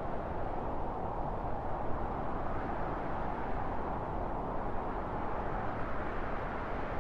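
Wind blowing steadily: a dense, low noise that swells and eases slightly.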